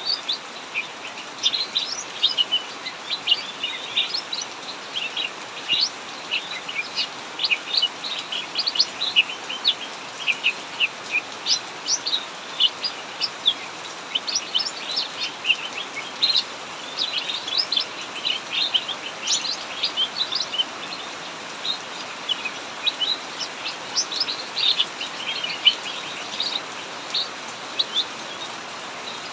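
Cucak mini (a small bulbul) singing on and on in rapid runs of short, high chirping notes, over a steady hiss of heavy rain.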